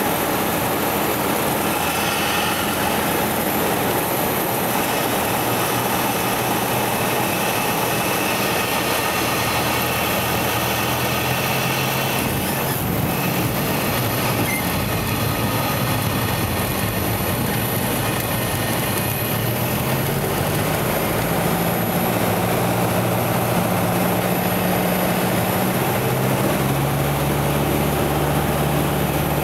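Cessna 172 floatplane's engine and propeller running steadily under a constant rushing noise. The low engine note shifts in pitch about two-thirds of the way through and again near the end.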